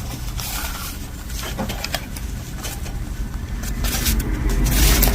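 Rustling and light clicks of items being handled and lifted out of a box, over a steady low hum, with a busier patch of rustling near the end.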